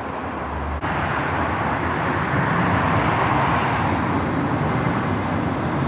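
Steady vehicle running noise, an even rushing hiss; it breaks off suddenly less than a second in and comes back louder.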